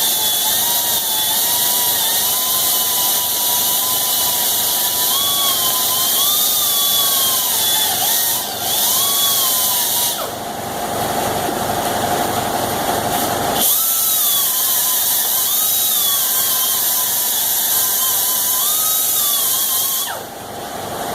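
Air-powered grinder polishing steel: a high whine that wavers in pitch as it is pressed onto the work and eased off. About ten seconds in it turns rougher and harsher for a few seconds, and it winds down near the end.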